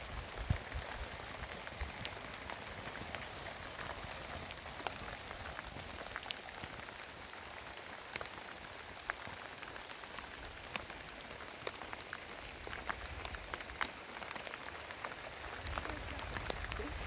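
Heavy rain falling steadily, with many sharp drop impacts ticking through the hiss. Low rumbling bumps come near the start and again near the end.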